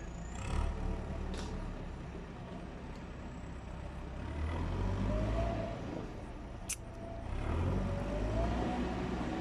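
Heavy vehicle's diesel engine running at a distance, its low rumble swelling twice as it works, with one sharp click a little before the second swell.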